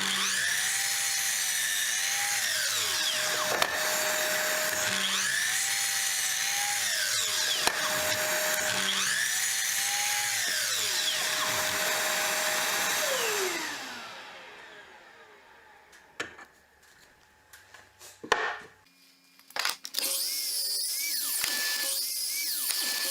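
Electric power tool working wood. Its whine rises and falls in a cycle about every four seconds, then winds down about 14 seconds in. A few sharp knocks follow, and the tool starts up again with a steady whine near the end.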